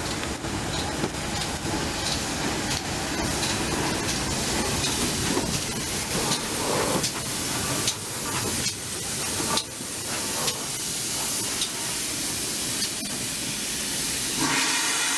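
Steam hissing from a pannier tank steam locomotive, with scattered sharp clanks and knocks.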